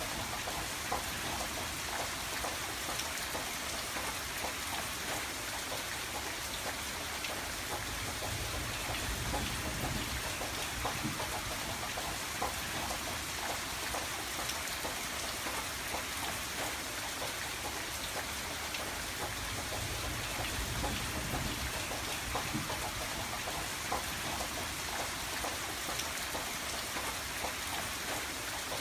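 Steady rain falling on a window: a dense, even hiss of drops with many small ticks.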